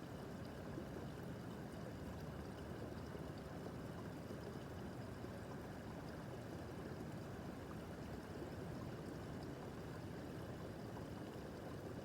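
A small brook babbling and gurgling over stones, a steady, soft rush of water that does not change.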